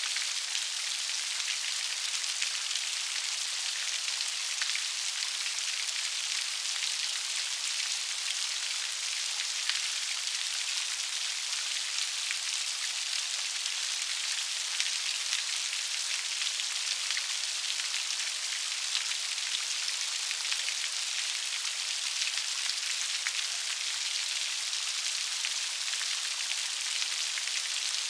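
Steady rain with many fine, close drop ticks, a continuous bright hiss with little low end.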